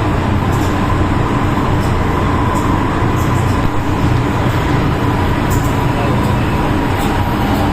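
MTR M-Train running at speed: a steady rumble of wheels on rail with a held whine, and faint high ticks every half second or so.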